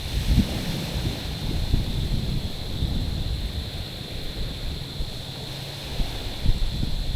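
Small waves washing over stones and pebbles at a rocky shore, a continuous uneven wash, with wind buffeting the microphone in low rumbling gusts.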